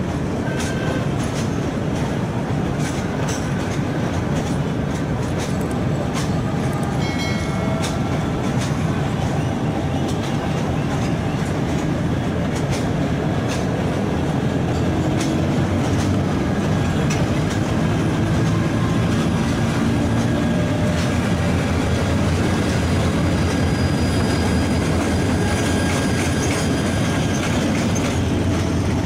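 Train running on the rails, a steady rumble with the wheels clicking over rail joints and a few brief high squeals about seven seconds in.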